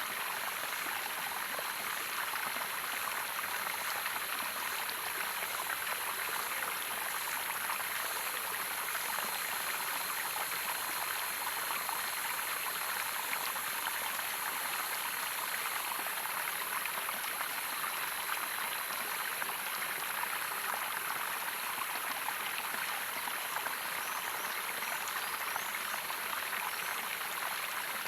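Running water of a stream or small waterfall: a steady, even rush with no change throughout.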